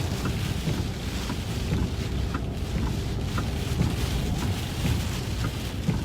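Car driving through a thunderstorm, heard inside the cabin: steady low road and engine rumble under wind and rain noise on the vehicle, with a few faint short squeaks.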